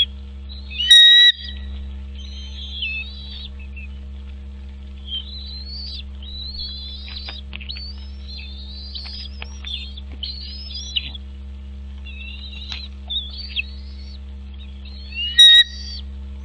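Birds chirping and calling in quick short phrases, with two much louder, piercing calls, one about a second in and one near the end, over a steady low hum.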